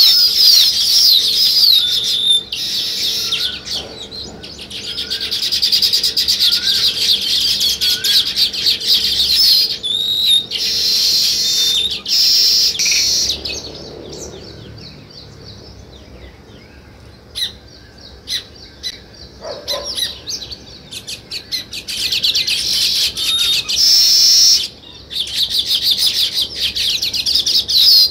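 A group of small songbirds chattering and chirping in dense, rapid bursts, dropping to a lull for a few seconds near the middle before picking up again. In the first third a separate short rising call repeats about once a second.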